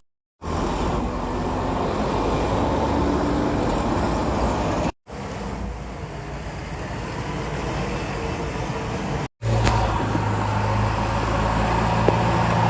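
Heavy machine engine running steadily, in three stretches split by brief silent cuts near the start, about five seconds in and about nine seconds in; the last stretch carries a stronger, steady low engine hum.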